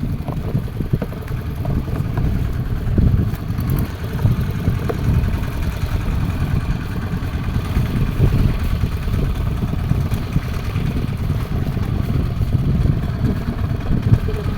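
Fishing boat's engine running steadily, a continuous low rumble with no break.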